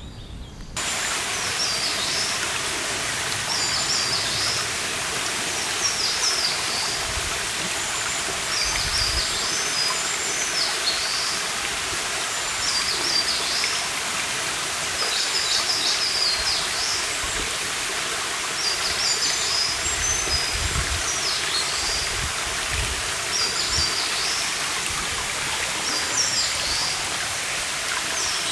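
A stream running steadily; the sound starts abruptly about a second in. Over it a songbird sings short, high phrases, repeated every second or so.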